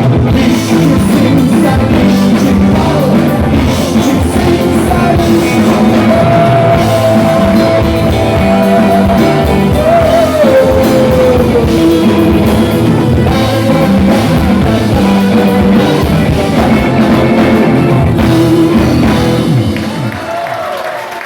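Live rock band playing, drums and guitar under a singer who holds one long note that slides down in pitch near the middle. The sound dies away near the end.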